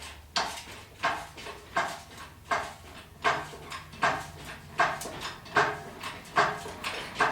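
Hydraulic jack pumped by hand in steady strokes, a metallic clank about every three-quarters of a second, as the unbolted engine is lifted.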